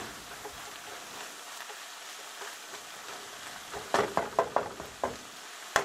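Green peppers and onions sizzling steadily in olive oil in a skillet, with a spatula scraping and clicking against the pan in a quick cluster about four seconds in and once more sharply at the end.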